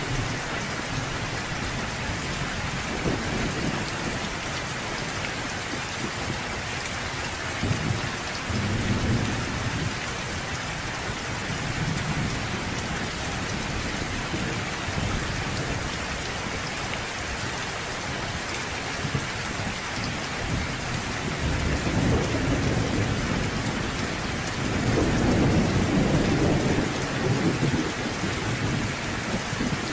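Steady heavy rain falling, with rolling thunder rumbling low several times, the loudest and longest roll starting about 25 seconds in.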